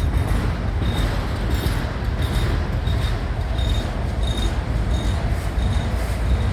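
Train rolling slowly in reverse: a steady low rumble, with a faint short high ping repeating about every half second.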